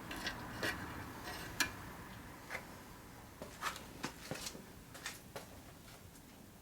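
Scattered light clicks and taps, about a dozen at uneven intervals, from hand-tool work on a Toyota 4A-GE engine while its oil pan is being removed.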